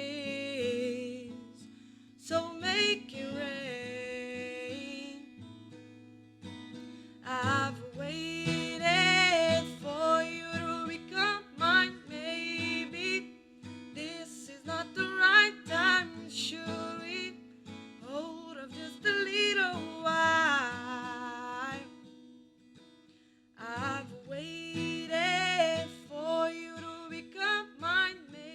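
A woman singing sustained, wavering notes over strummed acoustic guitar, with two short pauses in the voice.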